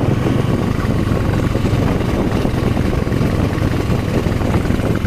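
Motorcycle engine running steadily on the move, heard from the rider's seat with wind rumbling and buffeting over the microphone.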